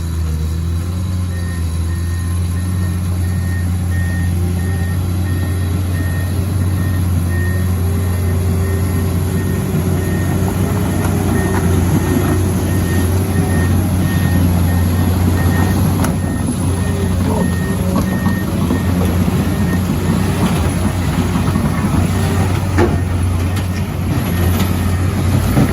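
Heavy diesel machinery running steadily under load, with a vehicle's reversing or travel alarm beeping in a fast regular series that stops about twenty seconds in. A few sharp knocks come near the end.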